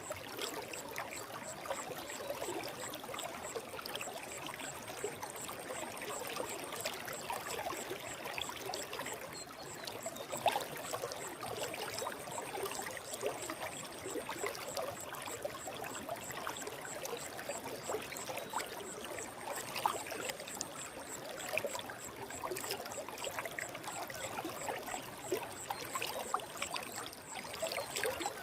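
Forest stream flowing: a steady rush of water, thick with small splashes and gurgles.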